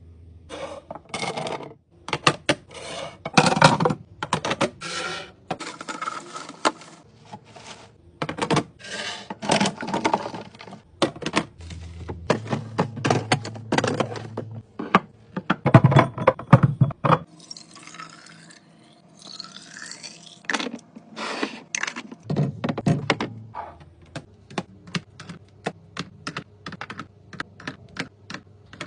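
Containers, jars and packaging being set down, opened and arranged in a fridge: a quick run of taps, knocks and clatter, with a softer, quieter stretch a little past the middle.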